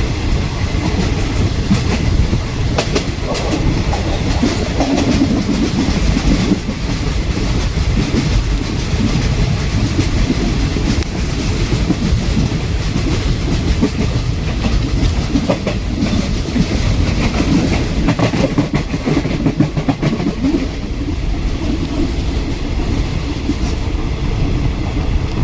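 Passenger train running on the rails, heard from on board: a steady rumble of the wheels with repeated clicks over the rail joints.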